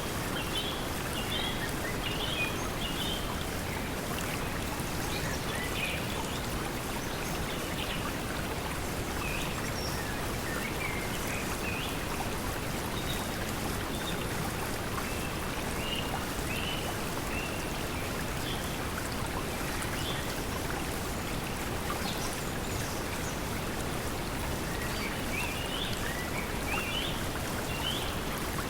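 Steady pink noise mixed with flowing stream water, with short bird chirps scattered through it. The chirps come in clusters near the start and again near the end.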